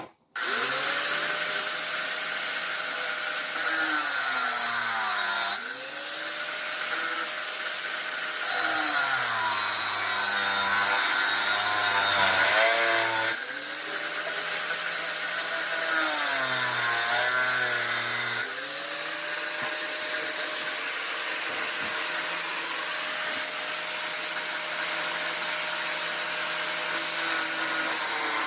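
Handheld electric power tool running at full speed with a steady whine. Its motor pitch sags and recovers three times as it bites into the work, with the longest bite a few seconds in the middle. It then runs freely without load near the end.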